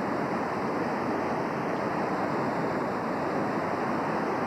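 Steady rush of the North Fork Wilson River running high in flood, a constant even roar of moving water.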